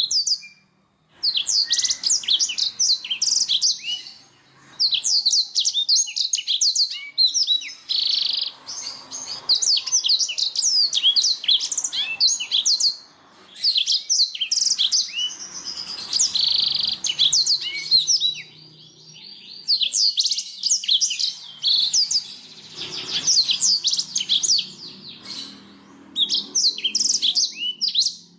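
Domestic canary singing: long, fast phrases of high trilled and chirping notes, broken by a few short pauses.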